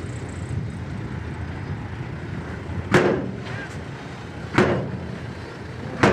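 Heavy diesel construction machinery running steadily, with three loud sharp bangs about a second and a half apart in the second half, each with a short ringing tail.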